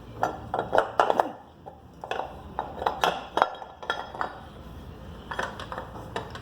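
Metal parts clinking and knocking as the motorcycle's freshly removed valve cover, its bolts and hand tools are handled and set down: a series of short sharp clinks in clusters, with brief ringing.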